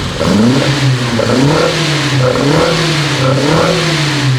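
Volvo 145 engine on twin Weber carburettors being revved up and down several times, picking up cleanly without coughing: the carburettors are in tune.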